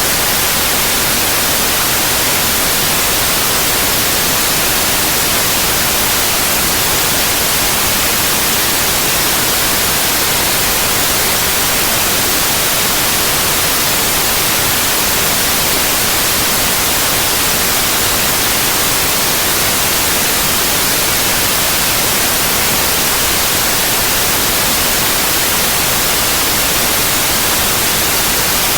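Synthetic white noise: a steady, even hiss across all pitches, strongest in the highs, with no change or break.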